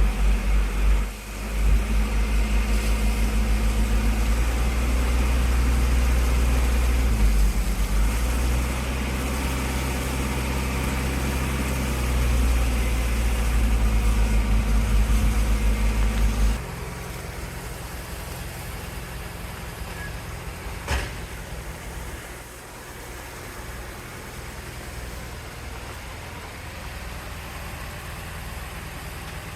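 Water truck engine running with a loud, throbbing low note, which drops suddenly to a quieter steady run about sixteen seconds in. A single sharp knock sounds a few seconds later.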